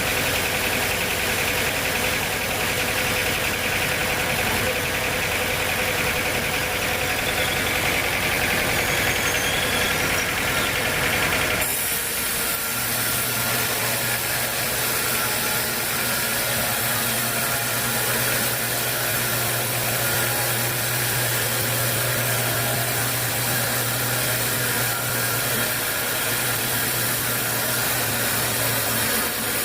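Sawmill machinery running steadily, an engine-like drone. About twelve seconds in the sound changes suddenly, and a steady low hum then holds until near the end.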